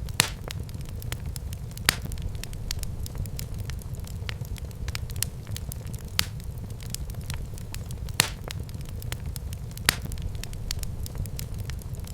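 Wood fire burning in a fireplace: a steady low rumble under constant crackling, with a few louder pops about a quarter second in, near two seconds, around eight seconds and near ten seconds.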